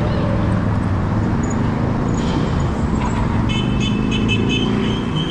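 Steady wind and road rumble with passing traffic on a moving bicycle ride, joined about two-thirds of the way in by a high, pulsing squeal that then holds steady.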